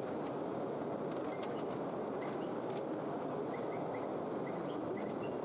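A few short, rising bird chirps scattered over steady background noise.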